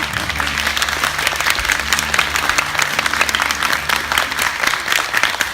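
Audience applauding: a dense, even patter of many hands clapping at a steady level.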